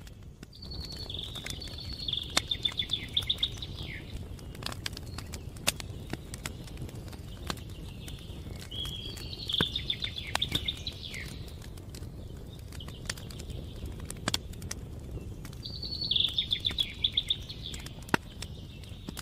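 Campfire crackling with scattered sharp pops over a low steady rumble, while a songbird sings the same short phrase three times, each a quick run of repeated high notes.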